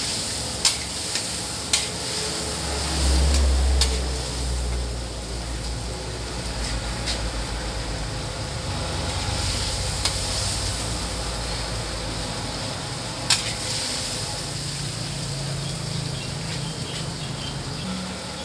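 Small squid sizzling as they stir-fry in a large metal wok, with a metal spatula stirring and scraping and sharp clanks against the wok now and then. A low rumble swells near the start and dies away after about twelve seconds.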